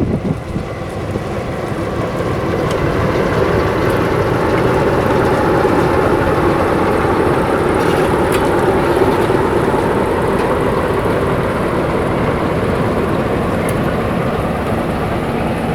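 A train passing close by: a steady, loud rumble of running gear on the rails that builds over the first few seconds and then eases slowly, with a few sharp clicks.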